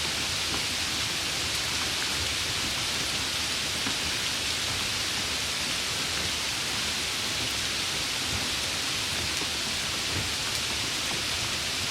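Steady rain falling, a continuous even hiss of many drops with no distinct drops or pauses standing out.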